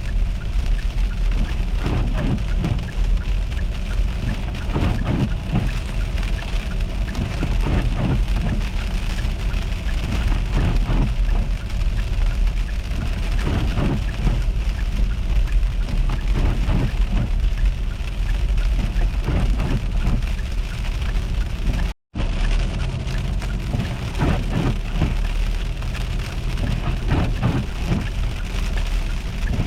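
Freezing rain and sleet pattering steadily over a constant low rumble. The sound cuts out for a moment about two-thirds of the way through.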